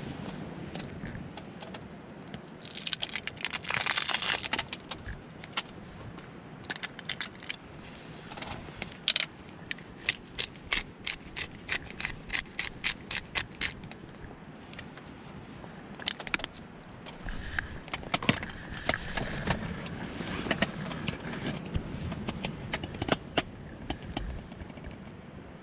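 Light metallic clinks, taps and scrapes of cookware and utensils being handled, with a quick run of sharp ticks, about four a second, in the middle.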